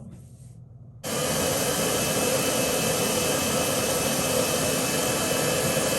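Hand-held hair dryer blowing, switched on abruptly about a second in and running steadily until it cuts off at the end.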